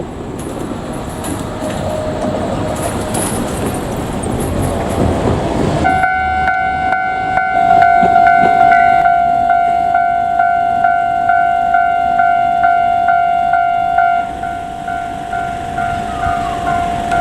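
A JR Kyushu 787-series electric train running past with a rumble of wheels on rail, which cuts off abruptly about six seconds in. After that a Japanese level-crossing alarm rings steadily, an electronic bell striking about every 0.7 s, a little quieter near the end.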